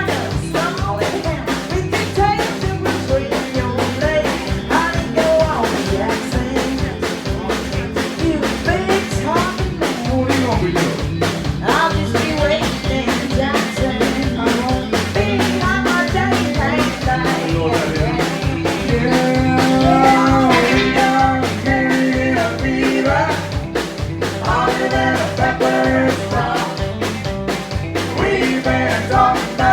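Live country rock and roll band playing an up-tempo song with a steady driving beat, guitar and singing.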